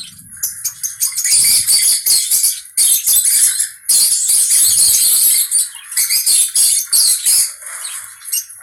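A conure parrot giving a run of loud, harsh, rasping screeches in repeated bouts, easing off to quieter chatter near the end.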